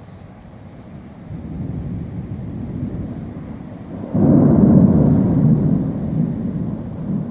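Thunder: a low rumble that builds, jumps suddenly louder about four seconds in, then slowly dies away.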